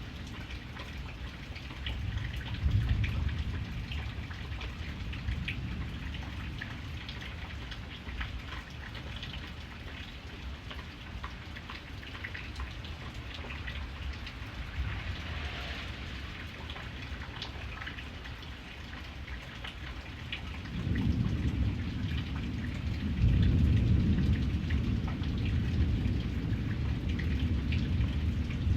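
Steady rain falling, with many individual drops ticking on a surface. Low thunder rumbles under it: a short swell near the start and a longer, louder roll through the last third.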